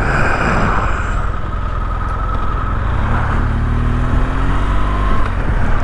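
Motorcycle engine running under steady wind and road noise while riding; about three seconds in, the engine note climbs gently as the bike accelerates.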